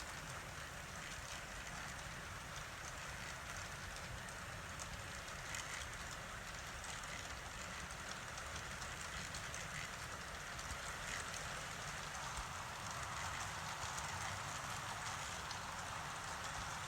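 Model train running along layout track: a steady whir of motor and wheels with fine clicking from the rails. It grows slightly louder in the second half.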